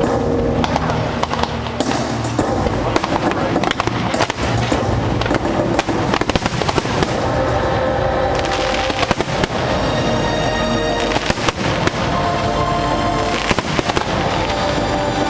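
Fireworks popping and crackling in quick succession throughout, over the show's music.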